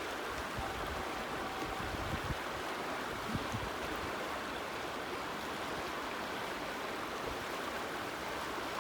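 Rushing water of a small river waterfall, a steady, even rush.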